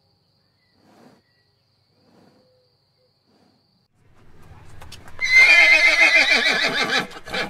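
A horse neighing: one loud whinny about two seconds long, its pitch wavering up and down, starting a little past the middle.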